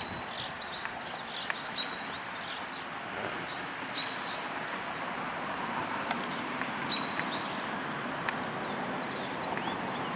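Light rain falling steadily with birds chirping through it in short, high calls, and a few sharp ticks.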